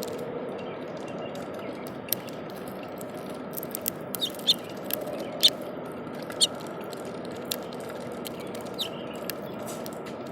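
Small bird giving brief high chirps, several in a cluster from about four seconds in, with scattered sharp clicks, over a steady background noise.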